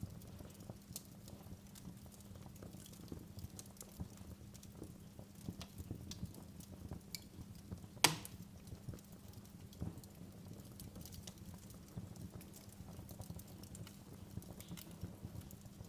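Wood fire in a fireplace crackling with irregular small pops over a low steady rumble. One sharp, much louder pop comes about eight seconds in.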